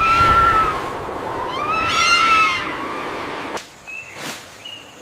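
An animal calling: two drawn-out pitched cries over a rushing background, the second rising and then falling. After that it goes quieter, with two short high chirps near the end.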